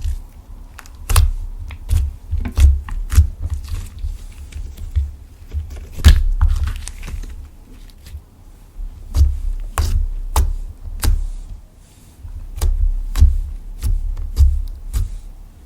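Clear slime being kneaded and squeezed by hand: irregular sharp clicks and pops of trapped air, each with a low thud, coming in quick runs with short pauses.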